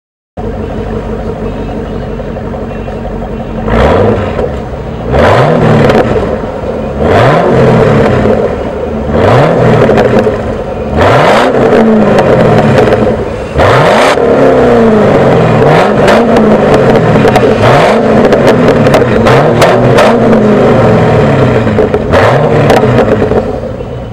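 Chevrolet Camaro exhaust: the engine idles steadily for a few seconds, then is revved again and again, a blip about every two seconds, each rev rising and falling back.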